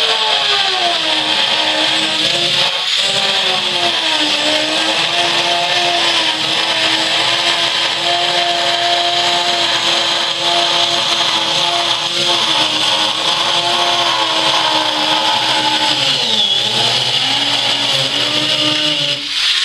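Dremel rotary tool with an abrasive cutting wheel cutting through aircraft fuselage skin: a steady high whine over a gritty hiss. The motor's pitch sags as the wheel is pressed into the cut, with a deep dip near the end, and the tool stops just before the end.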